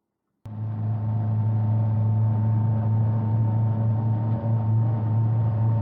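A steady low engine drone that starts abruptly about half a second in and holds an even pitch throughout.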